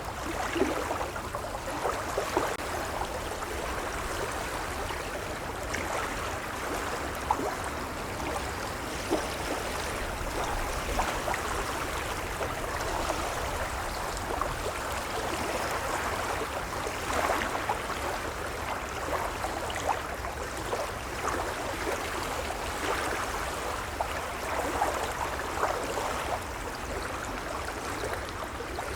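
Gentle waves lapping: a steady wash of water with frequent small splashes and gurgles.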